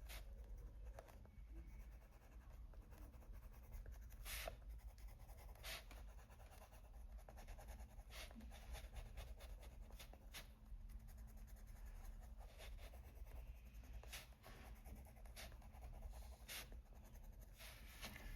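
Faint scratching of a coloured pencil on paper, blending a light green over shaded areas, with a few short light taps or strokes standing out.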